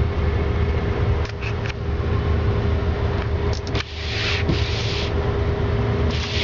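2007 Ford F-150 engine idling steadily just after a cold start near freezing, with a low even rumble and a steady hum. Two short bursts of hiss come through about four and six seconds in.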